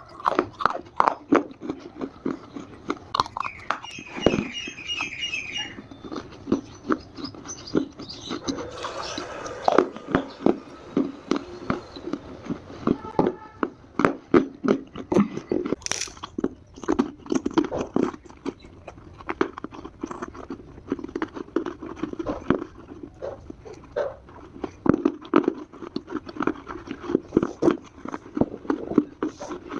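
Dry Multani mitti (Fuller's earth) clay being bitten and chewed close to the microphone: repeated crisp crunches and crackles. A brief high-pitched chirping sound is heard about four seconds in.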